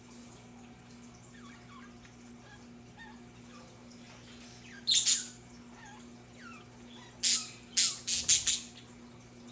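Budgerigars chirping and chattering softly, with a short loud harsh call about five seconds in and a quick run of three or four more near the end. A steady low hum lies underneath.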